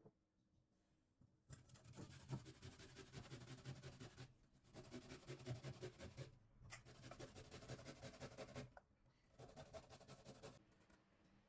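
Faint, scratchy scraping or rubbing, heard in four stretches of about two seconds each with short pauses between.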